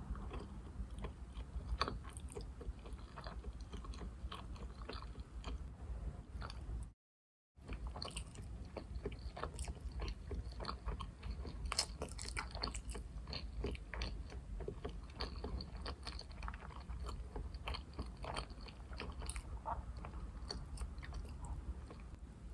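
Close-miked chewing and biting of sushi: many small wet mouth clicks and smacks. The sound cuts out completely for about half a second about seven seconds in.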